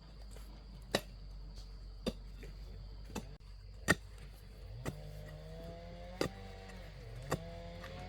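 Repeated strikes of a hoe digging into soil, about one a second. A steady motor drone comes in about halfway, dipping briefly and then resuming.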